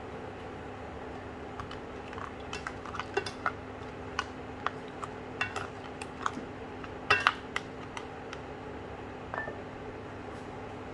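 Kitchenware clinking and knocking: irregular sharp clinks of utensils against pots or dishes, with a cluster of louder clinks about two-thirds of the way in, over a steady low hum.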